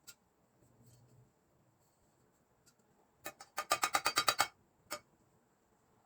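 A quick run of sharp, ringing clicks, about eight in under a second, from a small mechanism, with a single click just before it and one more shortly after.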